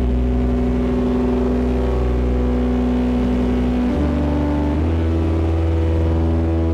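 Distorted ambient drone from a eurorack modular synthesizer patch with Lyra8-FX, DPO oscillator, Belgrad filter and Mimeophon delay: sustained buzzing low chords that step to new pitches about four seconds in and again nearly a second later.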